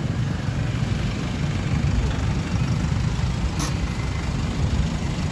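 SUV engine idling close by, a steady low rumble, with street traffic around it. A single brief click about three and a half seconds in.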